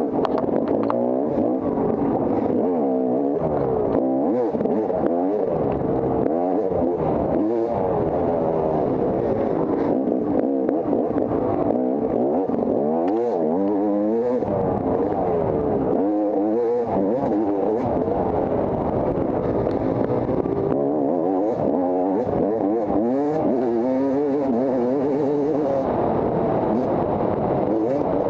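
Off-road dirt bike engine under hard riding, its pitch rising and falling over and over as the throttle is opened and closed through the trail.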